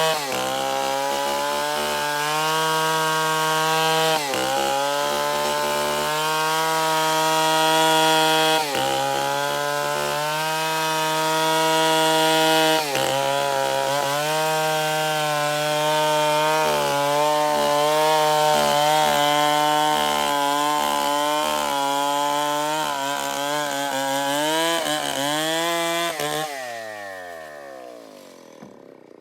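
Stihl 070 two-stroke chainsaw running at full throttle through wood, its pitch steady with brief dips a few times. Near the end the throttle is released and the engine winds down.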